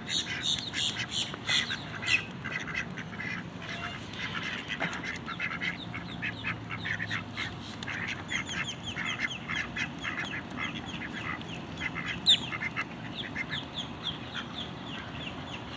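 A flock of ducks quacking in fast runs of short calls, many overlapping, with no let-up.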